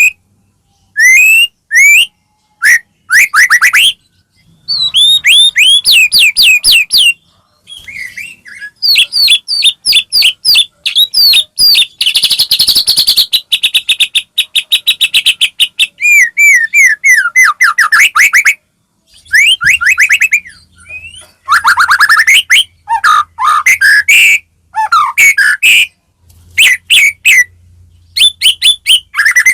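White-rumped shama (murai batu) singing loudly: fast runs of sweeping whistled notes and rapid trills, phrase after phrase with short pauses between.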